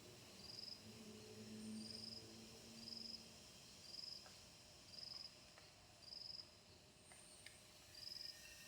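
A cricket chirping faintly, short high trills repeating about once a second.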